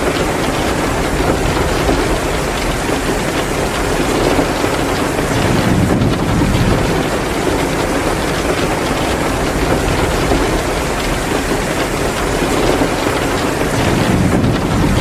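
Heavy downpour falling steadily, with a wood fire crackling in a fireplace.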